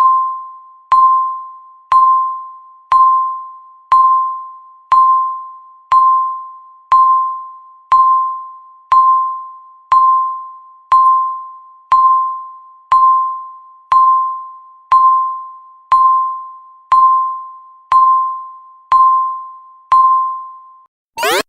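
Countdown timer beep: a short electronic tone of about 1 kHz, once a second, each fading away quickly, marking the last seconds counting down to zero. Right at the end the loud alarm for zero starts, a fast run of rising sweeps.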